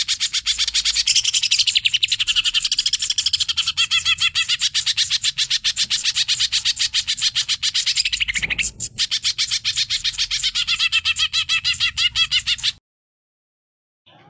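Cucak ijo (greater green leafbird) singing a fast, unbroken run of sharp chattering notes, more than ten a second, with a brief stumble about eight and a half seconds in. It falls silent for about a second near the end, then starts again.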